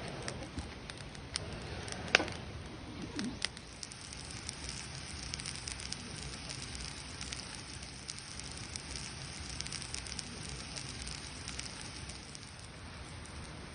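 Campfire crackling steadily, with a scatter of sharp little pops and one louder pop about two seconds in.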